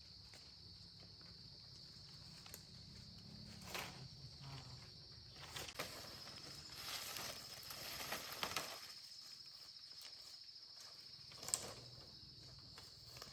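Insects chirring in a steady high drone, with scattered light knocks and rustling. The loudest of these is a sharp click about three-quarters of the way through.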